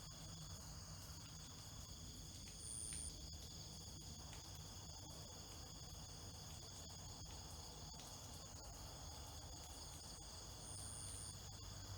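Faint, steady chorus of insects trilling at several high pitches at once, with two brief high, thin notes, about three seconds in and again near the end.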